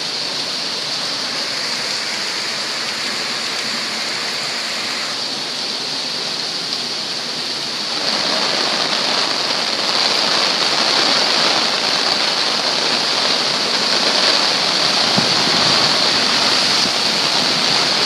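Flooded creek over its banks, fast floodwater rushing steadily; it grows louder about eight seconds in.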